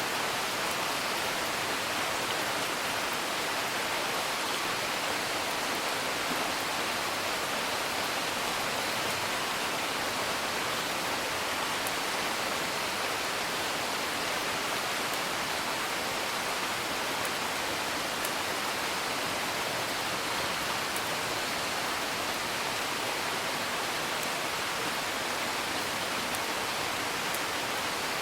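Steady, even rain hiss mixed with a wood fire, whose crackles show only as a few faint ticks.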